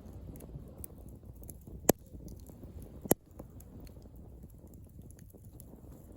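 Driftwood campfire crackling, with many small ticks and two sharp, loud pops a little over a second apart near the middle, over a steady low rumble.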